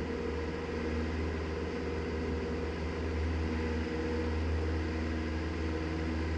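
Cessna 172's single piston engine and propeller at full climb power just after takeoff, a steady drone heard inside the cockpit.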